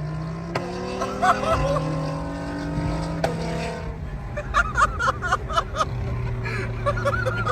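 Catless straight-piped VW R32's 3.2-litre VR6 exhaust drone, loud and steady with steps in pitch. There are sharp cracks about half a second in and about three seconds in, and a quick run of cracks around the middle.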